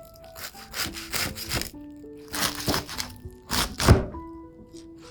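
Crisp toasted bread crunching in several rasping strokes, with one sharp knock about four seconds in.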